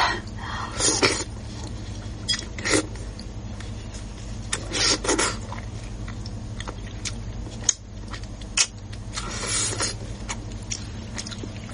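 Close-up chewing and biting of food with a steady low hum behind, with louder bursts of chewing about a second in, around five seconds and near the end.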